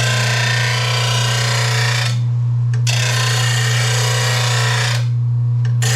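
RBG 712 blade sharpener grinding the edge of a lawn mower blade in repeated passes over a steady motor hum. One pass runs until about two seconds in, a second follows after a short gap, and a third starts near the end.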